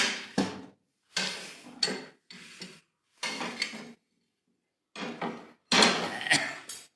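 Firewood being fed into a metal wood-burning heating stove: wood knocks and scrapes against the stove's metal firebox and door in five short clattering bursts.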